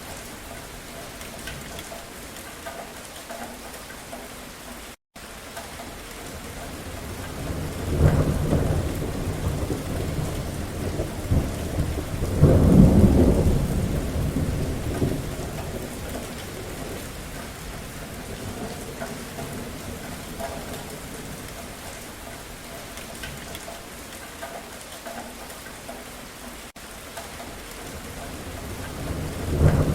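Steady rain falling with rolling thunder: a rumble swells about eight seconds in, a louder, longer one follows a few seconds later, and another builds near the end.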